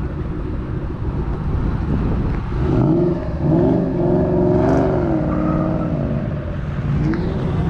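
A car engine rumbling and then revving. Its pitch climbs about two and a half seconds in, holds for a couple of seconds, drops back, and starts climbing again near the end.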